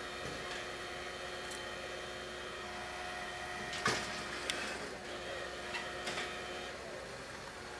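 Steady hum of an idling vehicle engine, with a few sharp knocks or clacks about four seconds in and again near six seconds.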